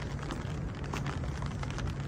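Steady rain falling, with many individual drops tapping sharply and irregularly close by over a low, steady rumble.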